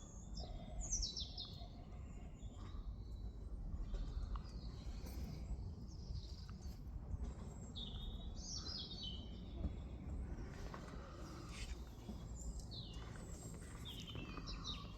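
Small songbirds singing in the background: short, high, descending chirping phrases every few seconds, over a low steady outdoor rumble.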